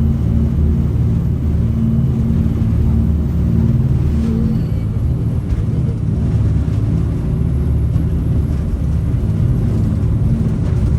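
Jet boat's turbo diesel engines running under way, a loud steady low drone whose note shifts slightly about four and a half seconds in.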